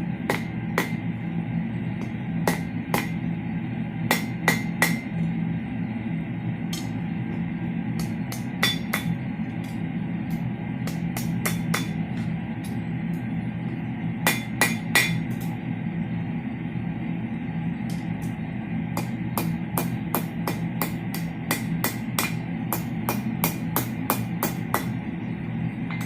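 Hammer blows on steel, struck irregularly: single taps and quick clusters of two or three, some with a short metallic ring. Under them runs a steady low hum.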